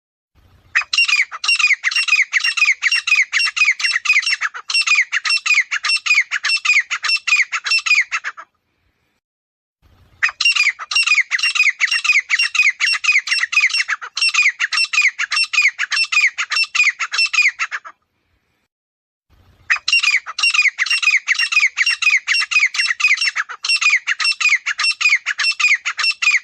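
Grey francolin calling: three loud bouts of rapidly repeated harsh notes, each bout lasting about seven seconds, with short silent gaps between them.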